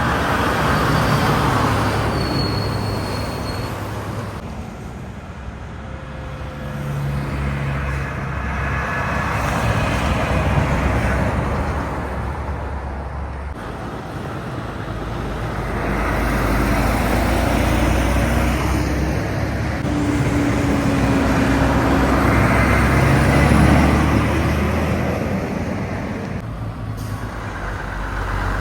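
Trucks and other road vehicles passing one after another on a highway. The engine and tyre noise swells and fades about four times, with another vehicle approaching near the end.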